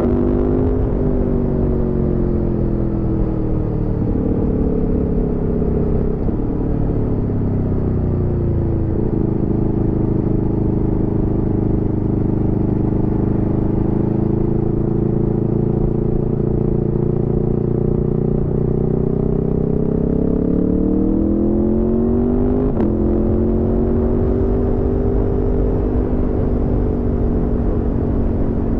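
Aprilia Tuono V4 motorcycle's V4 engine under way: it eases off and its pitch falls over the first several seconds, cruises at a steady pitch, then pulls harder with rising pitch and upshifts about 23 seconds in, the pitch dropping sharply before settling to a steady cruise.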